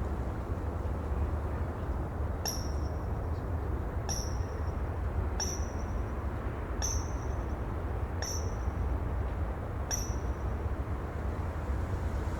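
Steady low rumble of sea ambience, with a bird giving six short, high calls about every one and a half seconds.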